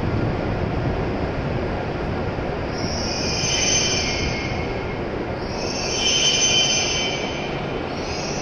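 E7 series Shinkansen train slowing into the platform with a steady rush of running noise. A high-pitched squeal rises out of it twice, about three and six seconds in, and briefly again near the end as the train brakes to a stop.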